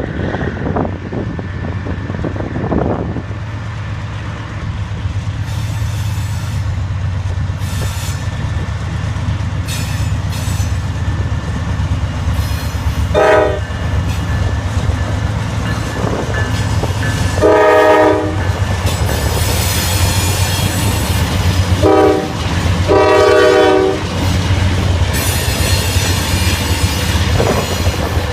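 Diesel freight train approaching, its locomotives' engines running with a steady low rumble while the locomotive air horn sounds four times: short, long, short, long. From about two-thirds of the way in, high-pitched wheel and rail squeal joins as the train draws near.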